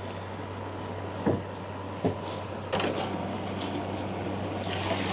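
A few sharp knocks and some rustling over a steady low hum, as a portable air conditioner unit is shifted and propped up in a tent's window opening: two knocks about one and two seconds in, rustling near the end.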